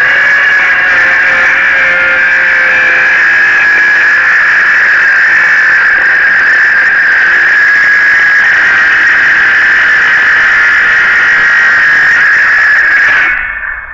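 Circular saw running at full speed with a steady high whine while it cuts a notch in deck lumber, then shutting off and winding down about 13 seconds in.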